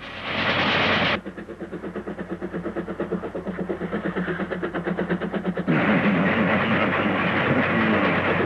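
Train sound effect: a burst of hissing, then a rapid, even clatter of several beats a second, then hissing again.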